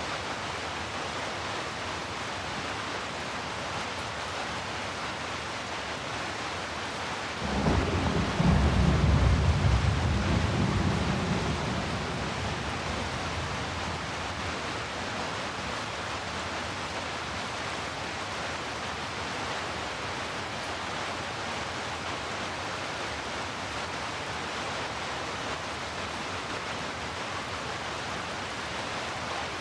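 Steady heavy rain with a deep roll of thunder that breaks in suddenly about seven seconds in, rumbles loudest for a few seconds, then fades back into the rain.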